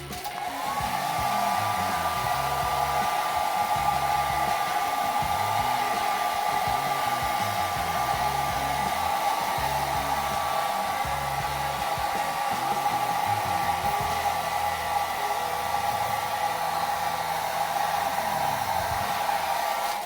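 Hand-held electric blower running steadily, its motor whine rising as it spins up at the start, then cut off abruptly at the end.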